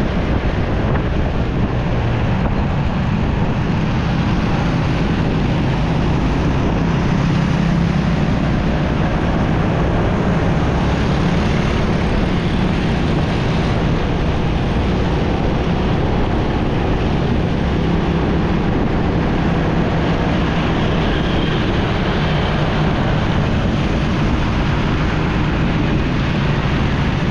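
Motorcycle on the move in road traffic: steady wind rush on the microphone over the bike's engine and road noise.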